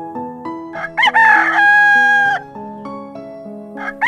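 Rooster crowing once, cock-a-doodle-doo: a short rising start, then a long held note that drops off at the end, over soft background piano music. A second crow begins right at the very end.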